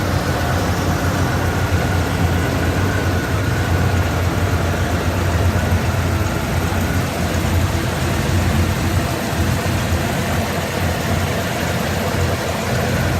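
1987 Dodge Ram 350's 5.9-litre (360) V8 idling steadily. The owner thinks it may still have a small vacuum leak.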